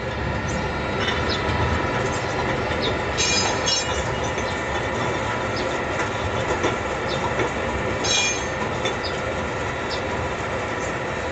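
Automatic rotary bottle rinsing machine running: a steady mechanical hum and rattle, with a few sharp high clinks of bottles about three and eight seconds in.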